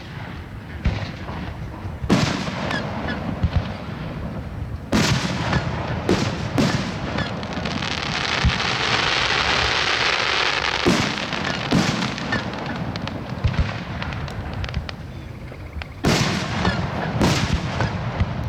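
Aerial fireworks going off: a string of sharp booms a second or a few seconds apart, with a dense hissing crackle swelling for a few seconds in the middle.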